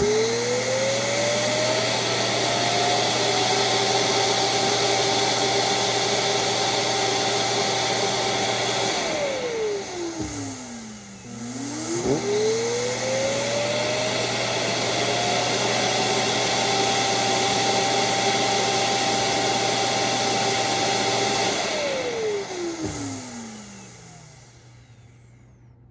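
Roomba Combo 10 Max's dock self-emptying the robot's full dustbin, loud. The suction motor spins up with a rising whine and runs steadily for about eight seconds, then winds down. It starts again for a second run of the same length and winds down near the end.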